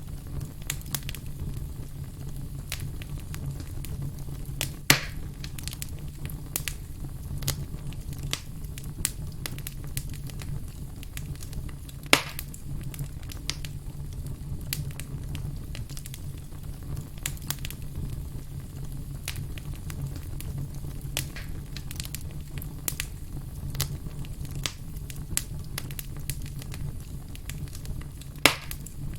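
Wood campfire crackling over a steady low rumble, with many small crackles and three sharp, louder pops about five, twelve and twenty-eight seconds in.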